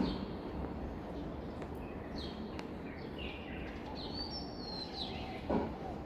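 Small birds chirping: short high notes scattered through, with one longer sliding call about four seconds in, over a steady low background rumble. Two brief thumps, one at the start and one about five and a half seconds in.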